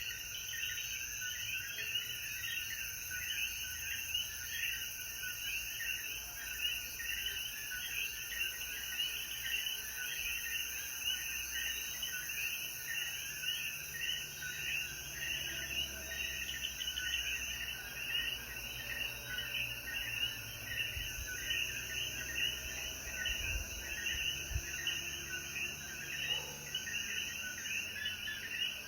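Dense night chorus of Puerto Rican coquí frogs: many overlapping short, high chirps repeating rapidly and continuously.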